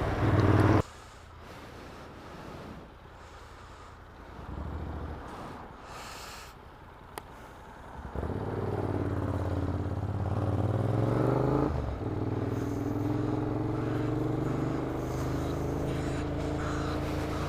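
Motorcycle engine with a Vance & Hines aftermarket exhaust: quiet for several seconds, then from about eight seconds in it pulls away with the pitch rising, and settles to a steady cruise.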